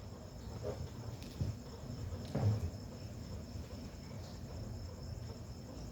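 Crickets trilling faintly and steadily, one high unbroken note, over low room noise.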